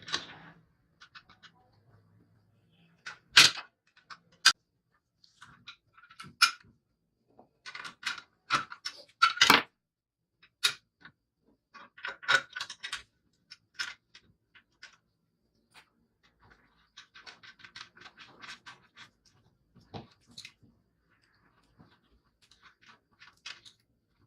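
Irregular clicks, knocks and rattling scrapes of hard parts being handled and fitted by hand, with a few louder knocks, the sharpest about three and a half and nine and a half seconds in.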